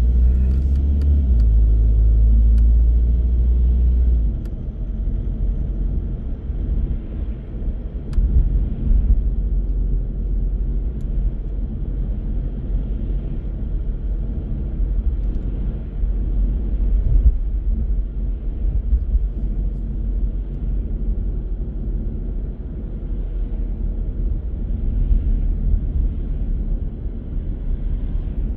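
A car driving, heard as a deep, steady hum for about the first four seconds, then an uneven low rumble of engine and tyres on the road, with a few faint clicks.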